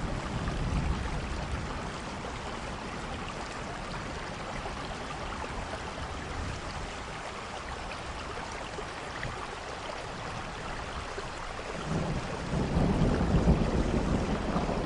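Steady rain falling, an even hiss. A low rumble of thunder dies away in the first couple of seconds and builds again about twelve seconds in.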